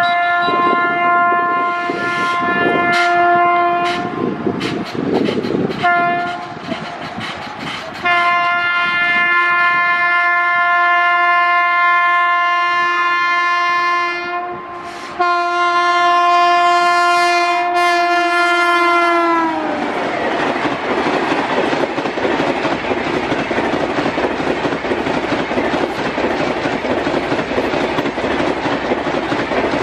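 Indian Railways electric locomotive sounding its horn as it approaches at speed: a few short blasts, then one long blast whose pitch drops as the locomotive passes. Its Rajdhani Express coaches follow, rushing past with a steady rumble and wheel clatter over the rail joints.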